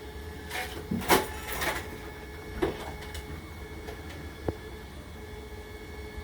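A 3D-printed plastic frisbee being handled and set on a small food scale: a few short rubbing and knocking sounds in the first three seconds, then a single sharp click about four and a half seconds in, over a steady faint hum.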